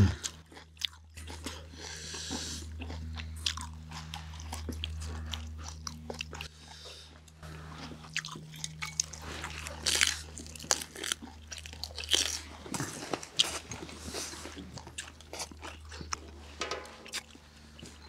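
Chewing and crunching of a meal of grilled pork belly and seasoned spring cabbage: a run of short, crisp bites and mouth clicks scattered through, over a steady low hum.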